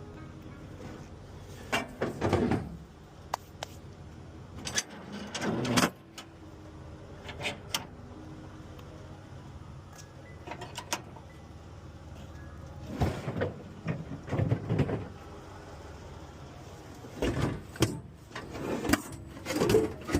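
Scattered clunks, knocks and scrapes of a refrigerator being handled and loaded with a hand truck, in irregular clusters over a steady low hum.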